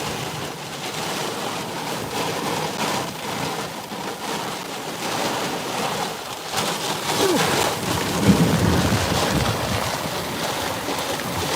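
Wind-driven heavy rain pounding a vehicle in a severe thunderstorm, heard from inside, with a louder low rumble about eight seconds in. The winds are estimated at 80 to 85 mph.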